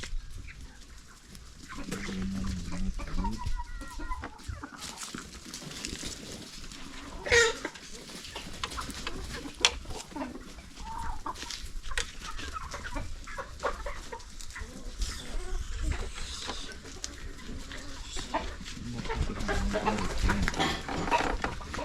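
Chickens clucking, with a longer call about seven seconds in, among scattered sharp knocks, the loudest about ten seconds in.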